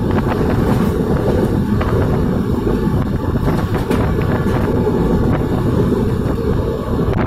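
Wind buffeting the microphone over the steady running rumble of an Indian Railways express passenger coach at speed, heard from its open doorway.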